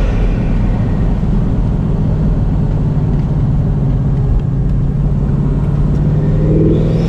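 Bugatti Mistral's 8.0-litre quad-turbocharged W16 engine running steadily at a low drone under road rumble while driving, its note starting to rise near the end as the revs climb.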